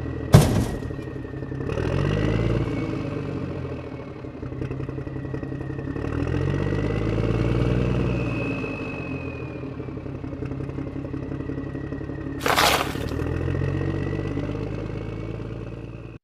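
Backhoe loader engine running, its pitch and level swelling up and down several times as it works. A sharp knock comes about half a second in, and a short scraping rush about twelve seconds in.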